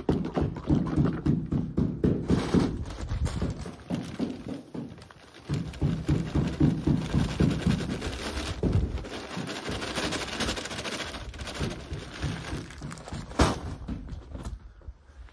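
Thick tile adhesive being stirred by hand in a bucket with a stick, a dense choppy churning and slapping, with a short lull about five seconds in and one sharp knock near the end.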